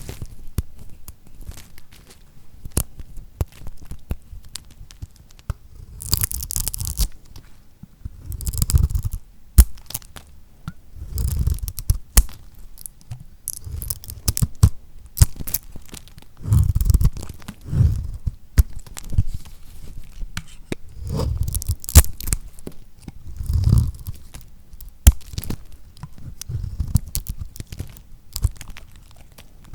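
A knife cutting through lacquer-coated soap: the hardened coating crunches and crackles, with sharp clicks and a low thud as each cut goes through, repeating every second or two.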